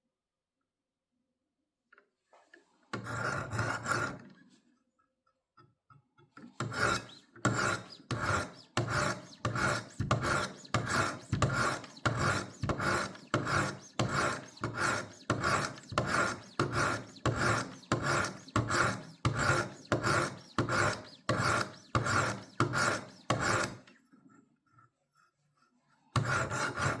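Diamond stones of a Wicked Edge WE60 guided sharpener scraping along a steel knife blade in steady, even strokes, about two a second, with a single short stroke a few seconds in. The stones are grinding a fresh edge onto a blade that had none, and a burr is just starting to form.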